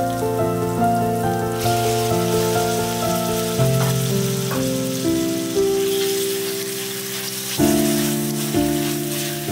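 Instrumental background music, a slow melody of held notes, over the sizzling of shrimp frying in hot oil and chilli paste in a wok; the sizzle grows louder about one and a half seconds in, as the shrimp go in.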